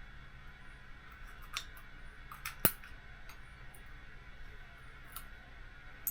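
Scattered light clicks and taps of small screws and a hand tool being handled on a workbench, with one sharper click a little under three seconds in, over a faint steady hum.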